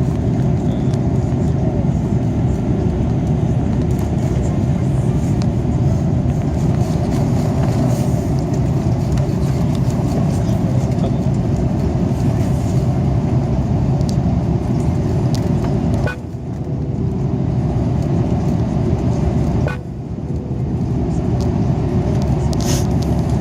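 Steady low-pitched rumble of an Airbus A330's engines and airflow heard inside the passenger cabin on approach. The noise dips suddenly twice, briefly, about 16 and 20 seconds in.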